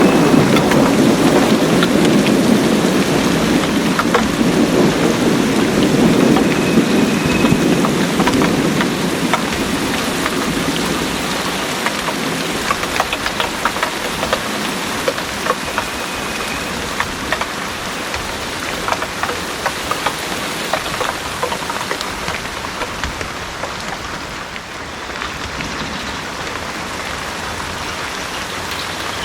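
Heavy rain pouring steadily, with scattered close drips. A low rumble of thunder rolls through the first several seconds and fades away.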